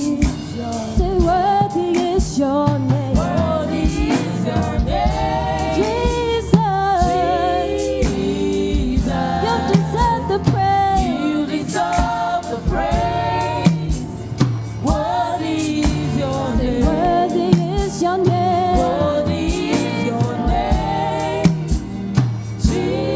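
Gospel worship music: a praise team singing with a band, drums keeping a steady beat.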